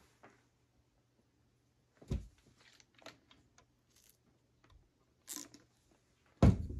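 Handling noises from arrow-making work at a bench: scattered clicks and rustles, with a dull thud about two seconds in and a louder one near the end.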